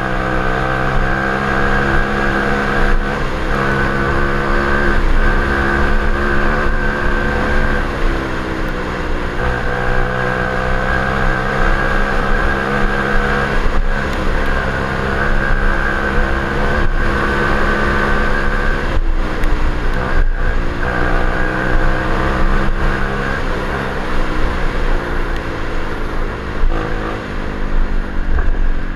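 Orion CRF37-2 125cc pit bike's four-stroke single-cylinder engine running under way, its pitch rising and falling with the throttle. It dips briefly a few times, as when the rider shifts or rolls off. Low wind rumble on the onboard camera's microphone runs underneath.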